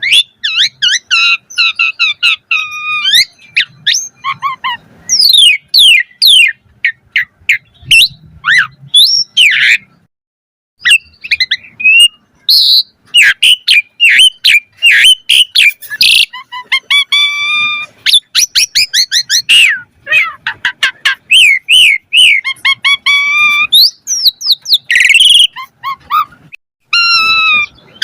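Asian pied starling (jalak suren) singing energetically: a fast, varied stream of clear whistles, sweeping rising and falling glides and harsh squawks, with a short pause about ten seconds in.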